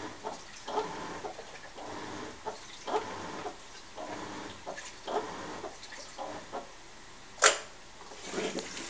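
Washing machine churning a load, with water and laundry sloshing in irregular bursts. A single sharp click about seven and a half seconds in.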